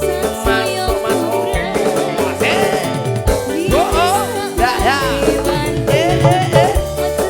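Live dangdut koplo band playing: steady bass notes and regular drum hits under a melodic lead that slides up and down in pitch.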